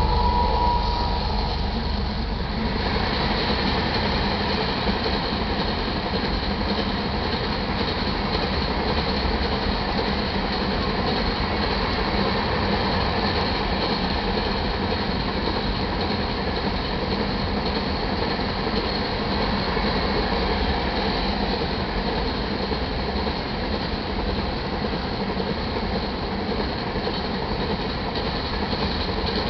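Iron ore train cars rolling past at a steady speed: a continuous, even rumble and clatter of steel wheels on the rails.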